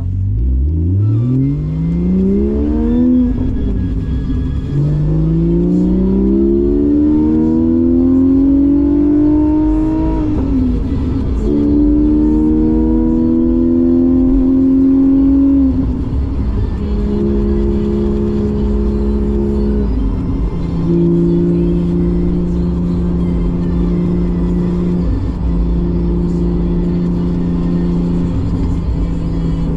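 Porsche 718 GTS 4.0's naturally aspirated flat-six through a Kline stainless exhaust with the valves open. It accelerates hard through three rising pulls, each cut by an upshift, then settles into a steady cruise that drops in pitch twice.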